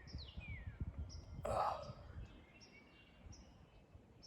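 Wild songbirds calling: short high chirps repeated every second or so and a couple of falling whistled notes early on, over a low wind rumble. A brief harsh burst of noise about a second and a half in.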